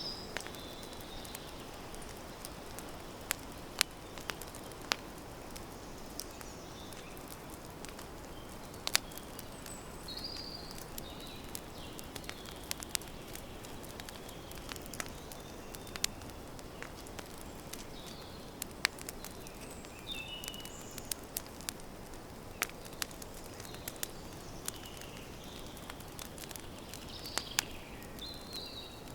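Campfire crackling, with sharp irregular pops over a steady hiss. Birds chirp now and then in the background.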